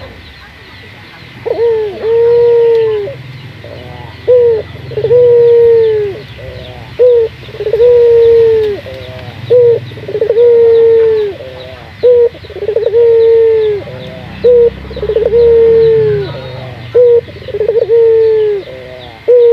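Barbary dove (burung puter) cooing over and over: each phrase is a short clipped note followed by one long drawn-out coo, repeating about every two and a half seconds, seven times. It is the bird's full song, the kind of recording played to lure other puters into singing.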